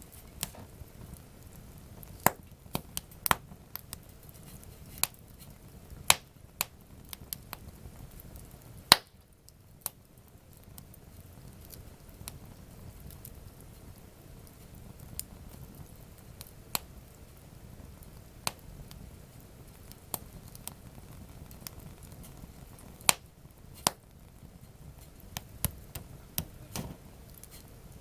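Wood campfire crackling: irregular sharp pops and snaps over a low steady hiss, with the loudest pop about nine seconds in and clusters of snaps near the start and near the end.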